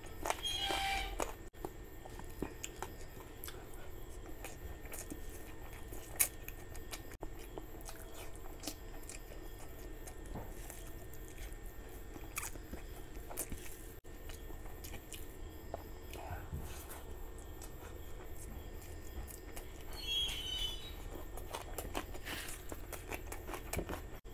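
Close-miked chewing and wet mouth smacks of a man eating curry and rice by hand, with many short clicks from his mouth and from his fingers working the rice on the plate. There are two brief louder patches, one right at the start and one about twenty seconds in.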